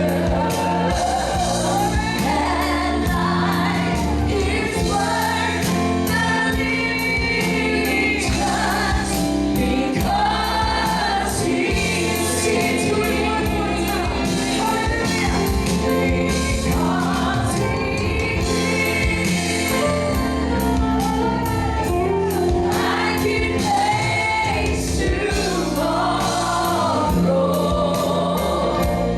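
Gospel choir singing with band accompaniment: sustained bass and keyboard chords under a steady drum beat.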